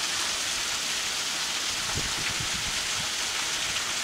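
Heavy tropical rain pouring down steadily in a dense hiss, with a few dull low knocks about halfway through.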